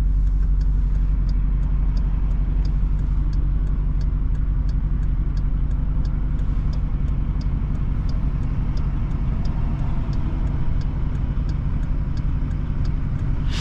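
Straight-piped Jeep Grand Cherokee SRT V8 running with a steady low drone, heard from inside the cabin, with no revving. A turn signal ticks steadily about three times a second.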